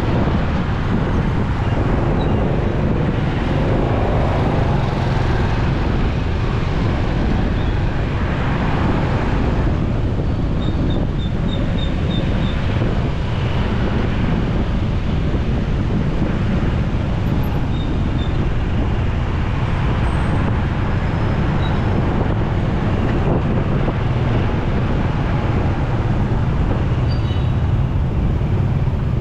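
Continuous road noise from a motorcycle riding in city traffic: a steady heavy low rumble of engine, wind and surrounding vehicles. A brief run of quick high pips comes about eleven seconds in.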